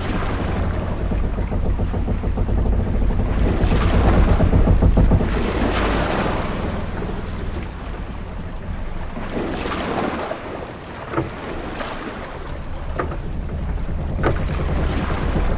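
Ship-at-sea ambience: a steady low rumble of wind with waves washing in swells about every two to four seconds, and a few short knocks in the second half.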